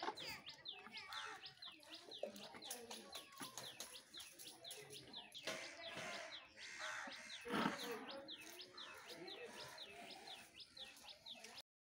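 A bird calling over and over, short high whistles that slide downward, about two or three a second. A brief louder noise stands out a little past halfway, and the sound cuts off just before the end.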